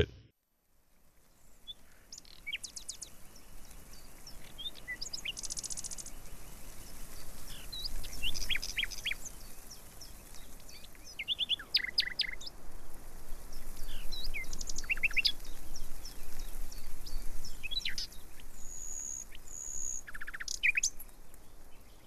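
Several wild birds calling: scattered short chirps and quick downward sweeps, a fast high trill, and a clear high whistle held twice near the end, over a faint steady outdoor background noise.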